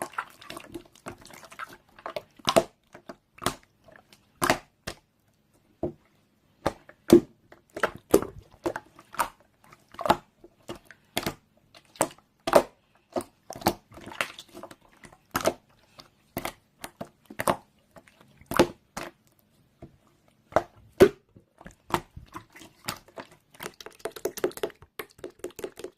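Slime being pressed and squeezed by hand, giving sharp wet clicks and pops about once a second, with a denser run of crackling near the end.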